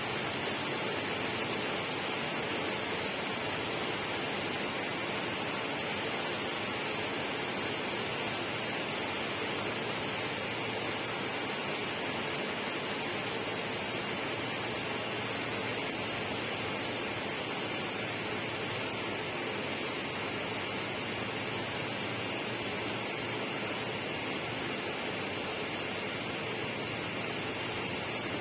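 Flowing water rushing steadily, an even unbroken hiss with no separate splashes or drops.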